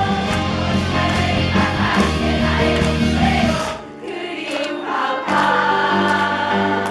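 A musical-theatre song performed live: voices singing held notes over band accompaniment. The low accompaniment drops out for about a second and a half near the middle, then comes back in.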